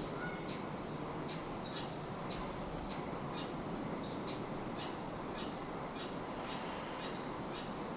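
Short, high chirps repeating about two or three times a second over a steady background hiss, as of a small bird or insect calling.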